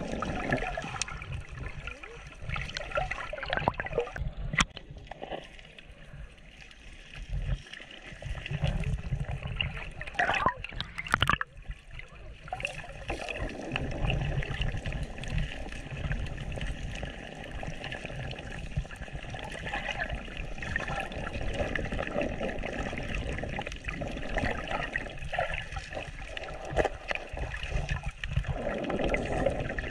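Moving water trickling and sloshing, over a low rumble, with a couple of sharp knocks about ten to eleven seconds in.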